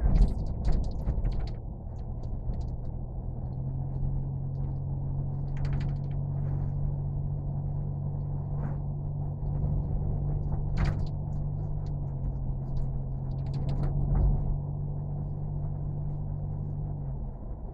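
A machine's steady low hum over a rumble, with scattered clicks and knocks; the hum shifts slightly in pitch about twelve seconds in and cuts off near the end.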